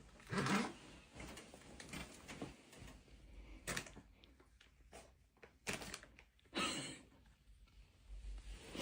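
A few scattered short knocks and clunks in a small room, with quiet gaps between them.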